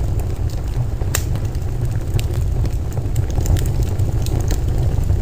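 Steady low rumbling noise with scattered sharp crackles and clicks.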